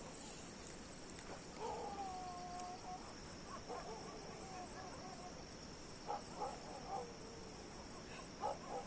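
Crickets trilling steadily, with faint distant animal calls over them: one long held call about a second and a half in, then short clusters of calls, the last near the end.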